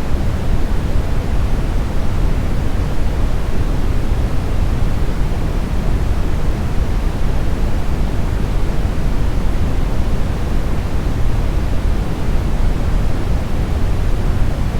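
Steady synthetic brown noise: an even, deep rushing hiss with most of its weight in the low end, unchanging throughout.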